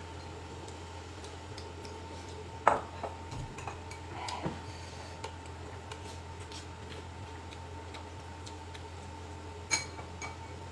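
A few sharp clicks of utensils against dishes, the loudest about two and a half seconds in and another near the end, over a steady low hum.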